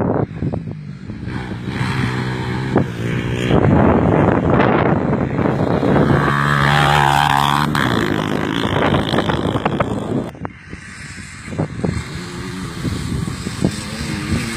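Motocross motorcycle engines revving and passing, pitch rising and falling with the throttle. The sound drops away briefly about ten seconds in.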